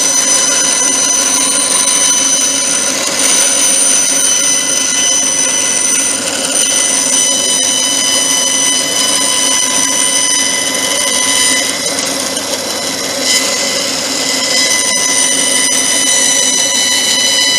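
Electric power tool running steadily with a high, even whine, briefly easing off about six seconds in and again around twelve to thirteen seconds in.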